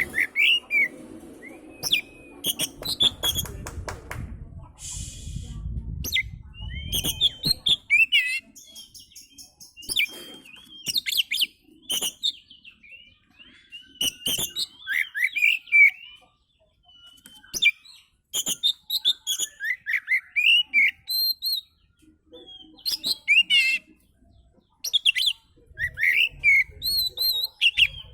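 Oriental magpie-robin (kacer) singing: a run of varied whistled phrases and rapid chattering notes broken by short pauses, with a low rumble under the first several seconds.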